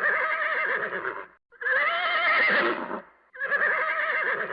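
Horse neighing: the same whinny repeats three times, each call about a second and a half long with a wavering pitch, separated by short pauses.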